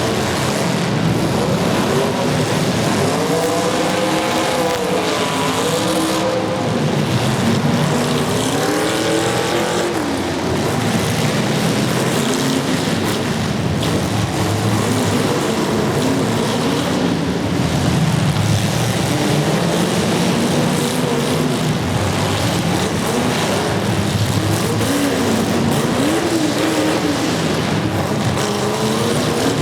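Demolition derby car engines running hard and revving, their pitches rising and falling over one another over a steady wash of engine and arena noise.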